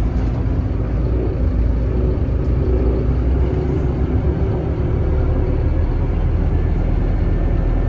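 Scania K310IB bus's diesel engine running under way, a steady low rumble with shifting engine tones partway through.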